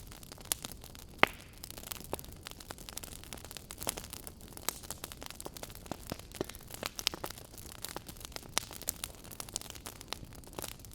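Wood fire crackling in a fireplace: irregular sharp pops and snaps over a steady low hiss, with one louder pop about a second in.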